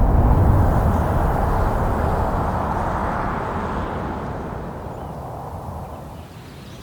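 A rushing noise with no distinct tones, fading away steadily over several seconds.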